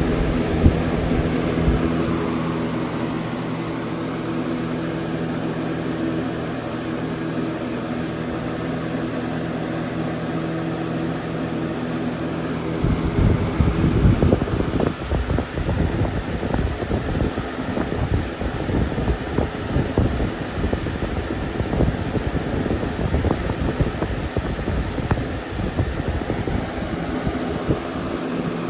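Lasko Weather-Shield box fan running on high speed: a steady motor hum under the rush of air. About halfway through the hum is masked by an uneven flutter of the airflow buffeting the microphone.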